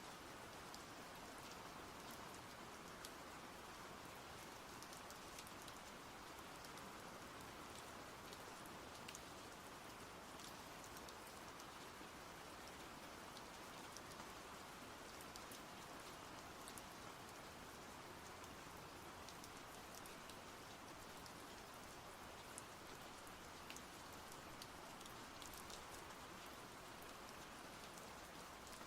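Faint, steady rain, an even patter with scattered sharp drop ticks.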